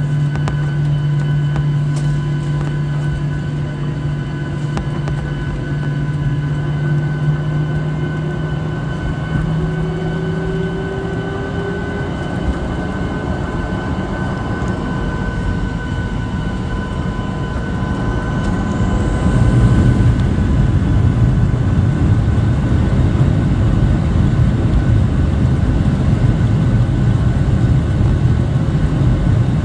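Boeing 737-800 cabin noise: its CFM56-7B engines run with a steady whine and hum, and one tone rises partway through. About two-thirds of the way in, the sound steps up into a louder, heavy rumble as the engines spool up for the takeoff roll.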